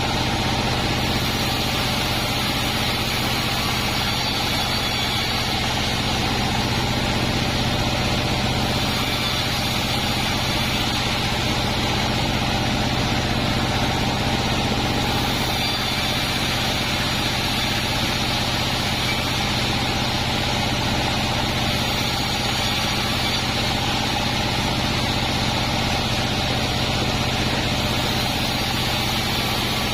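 Band sawmill running with a steady, unbroken machine hum.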